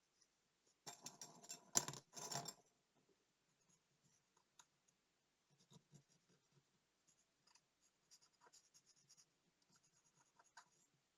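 Small hand tools scraping and clicking against the parts of a Soviet "Montana" digital watch: a burst of rubbing with one sharp click about two seconds in, then faint scattered ticks and scratches.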